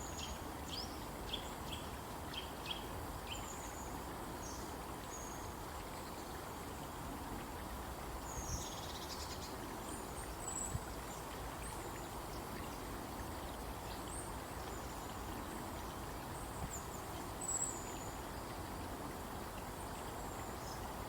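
Wild birds calling with short high chirps over a steady outdoor hiss. A quick run of repeated chirps comes in the first few seconds, then single chirps here and there.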